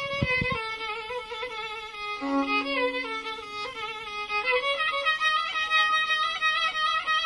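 Instrumental music: a violin plays a melody with wide vibrato, the lead-in to a Turkish meyhane song. A few short percussive hits come right at the start.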